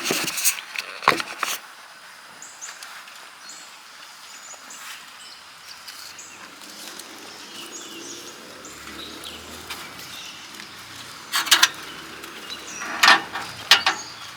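Camp cookware being handled at a butane stove: a few sharp knocks and clatters at the start and again near the end, over quiet outdoor ambience with faint bird chirps.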